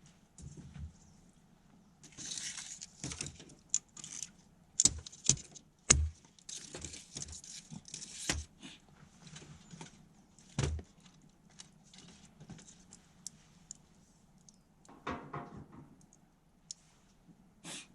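Irregular clinks, knocks and rustling from objects being handled, with a couple of sharper knocks about five and six seconds in and a longer rustle near the end.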